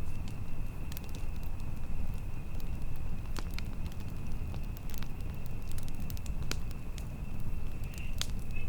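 Campfire burning, with scattered sharp crackles and pops over a steady low rumble of wind, and a thin steady high tone behind them.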